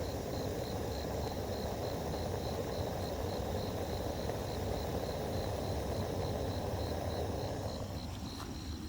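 Cricket chirping: a high, even pulse about four times a second, over a steady rushing noise that eases off near the end.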